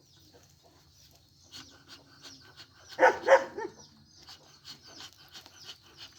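A dog barks twice in quick succession about three seconds in, over faint, high, scattered chirping.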